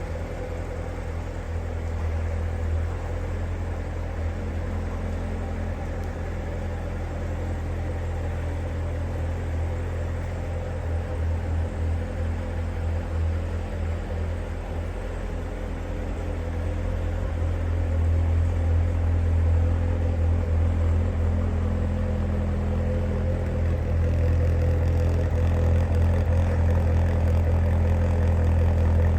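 2016 Chevrolet Corvette Z06's supercharged 6.2-litre LT4 V8 idling steadily with a deep, even hum, getting somewhat louder a little past halfway through.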